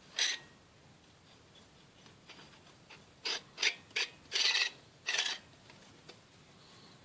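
Manual stainless steel salt and pepper mill grinding with a rasping crunch: one short twist right at the start, then five quick twists about three seconds in, the fourth a little longer.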